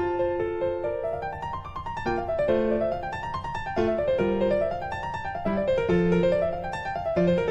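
Instrumental background music led by a piano-like keyboard, playing flowing runs of notes that rise and fall.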